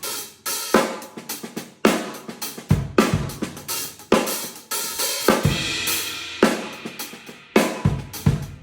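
Yamaha acoustic drum kit played solo: quick fills on snare and toms, with a cymbal crash accent about once a second and heavy kick drum hits, recorded close on a phone without processing.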